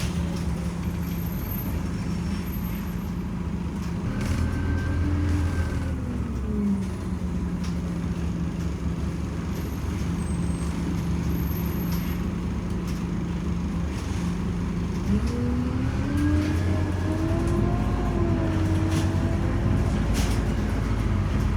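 Scania OmniCity city bus engine idling with a steady hum. About four seconds in it briefly revs up and settles back to idle. About fifteen seconds in it revs up again as the bus accelerates, the pitch climbing and wavering with the load.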